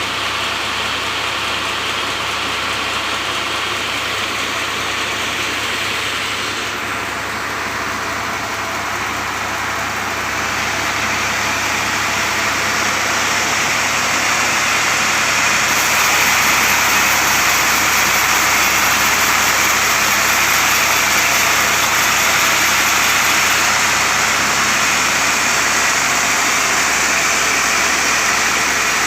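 Sawmill running while cutting a mango log, a continuous machine noise. It grows louder and harsher from about ten seconds in.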